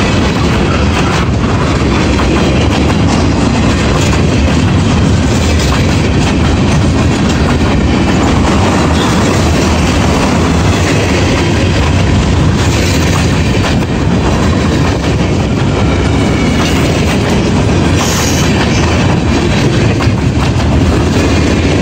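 Freight train cars rolling steadily past at close range, with a loud, continuous wheel roar and the clickety-clack of wheels over rail joints.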